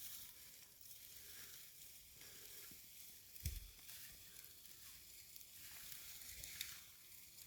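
Near silence: a faint steady hiss, with a soft low bump about three and a half seconds in.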